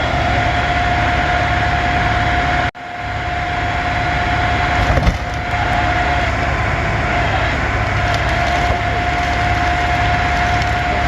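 Heavy diesel engines running steadily, a low rumble with a constant high whine over it. The sound cuts out for an instant about three seconds in, and there is a brief knock about five seconds in.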